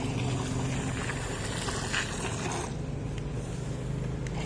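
Small electric motor of a toy remote-control boat running with a steady low hum over a haze of background noise.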